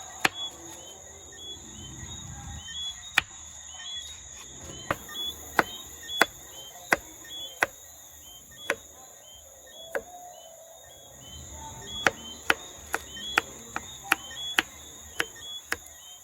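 Knife chopping vegetables, sharp separate strokes: a few scattered ones, then quicker runs of two or three a second, with a pause in the middle. Crickets chirr steadily behind.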